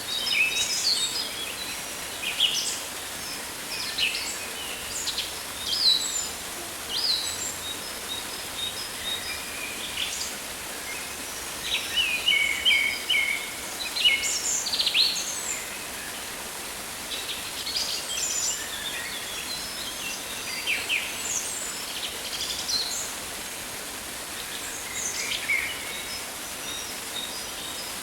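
Rainforest ambience: many birds chirping and calling in short overlapping phrases over a steady high hiss of rain or insects.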